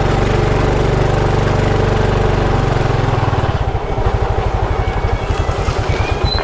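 Motorcycle engine running steadily, then slowing to a lower, pulsing beat a little past halfway.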